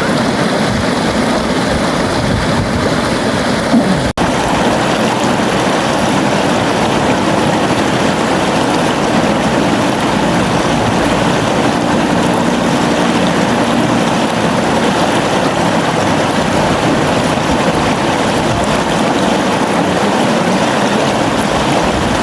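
River water flowing, a steady continuous rush. There is a split-second break in the sound about four seconds in.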